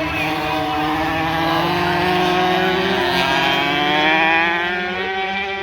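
Small 65cc two-stroke dirt bike engines running at high revs, one rising slowly and steadily in pitch as it accelerates.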